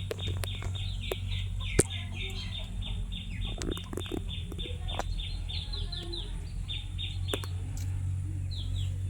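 Birds calling in quick, repeated short chirps that fall in pitch, several a second, over a steady low engine hum. A single sharp click comes about two seconds in.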